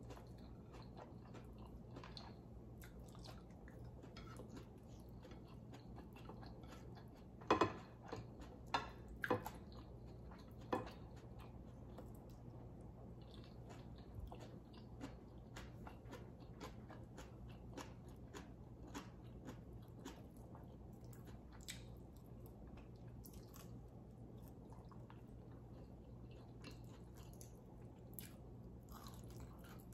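Close-miked eating sounds of a person eating fried fish with her fingers: soft chewing and mouth clicks throughout, with a handful of louder, sharper bites about eight to eleven seconds in. A faint steady low hum runs underneath.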